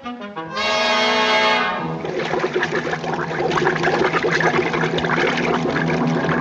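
Orchestral cartoon score with prominent brass: a loud held brass chord about half a second in, then a fast, busy orchestral passage.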